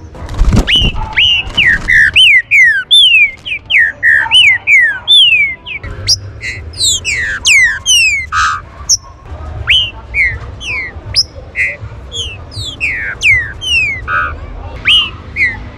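Several green-winged saltators (trinca-ferro) calling at once: a rapid, overlapping stream of short whistled notes that slide downward in pitch. There is a low thump about half a second in.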